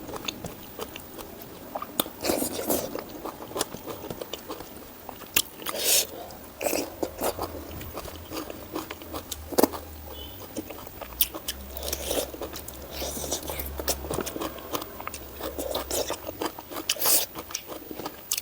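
Close-miked chewing and biting: irregular wet smacks, clicks and crunches of a mouthful of pork, greens and rice being eaten.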